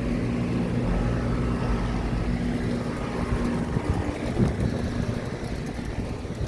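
Air-conditioning condensing units running in cooling mode: a steady compressor hum over the rush of the condenser fans, with a brief knock about four and a half seconds in.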